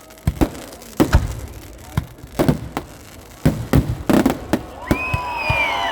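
Festival firecrackers of a temple fireworks display (vedikkettu) going off in an irregular run of about a dozen sharp bangs, often in quick pairs. Voices call out over the last second.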